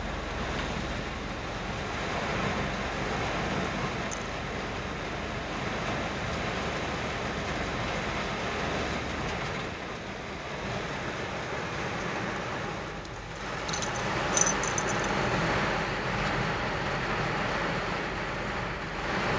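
Heavy rain pouring steadily in a thunderstorm, a continuous hiss that dips briefly and then swells louder about two-thirds of the way in.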